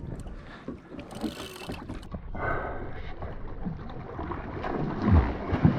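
Wind on the microphone and water noise around a kayak during a fish fight, with scattered small knocks and two heavy low thumps about five seconds in.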